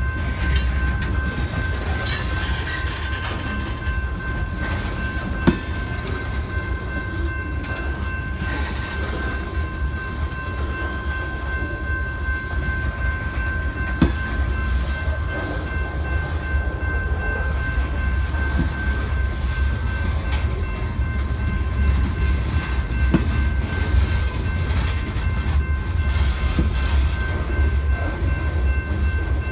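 CSX freight train's cars rolling past: a steady low rumble with wheel clatter, sharp knocks about 5 seconds in and again about 14 seconds in, and a steady high-pitched ringing tone throughout.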